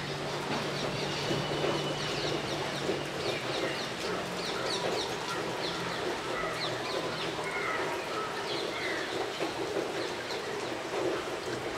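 Birds chirping: many short, quick, high calls scattered throughout, over a steady background hiss.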